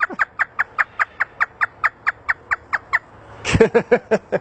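African grey parrot imitating hysterical laughter. It gives a fast run of short, high "ha" notes, about six a second, for some three seconds, then a few louder, lower laugh notes near the end.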